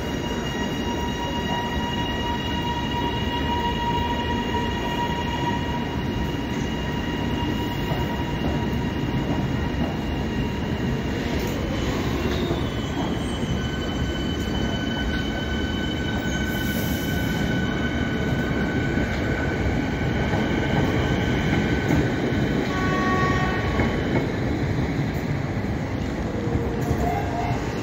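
Melbourne Metro electric suburban trains running beside the platform: a steady rumble of wheels and running gear, with several high steady whines that change about halfway through and one short falling whine near the middle.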